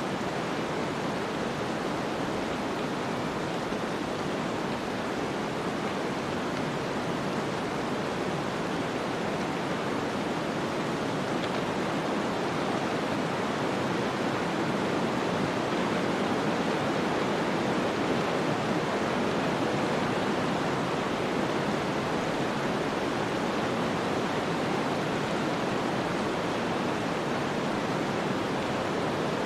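Snowstorm ambience: a steady, even rush of wind-driven noise that swells slightly about halfway through.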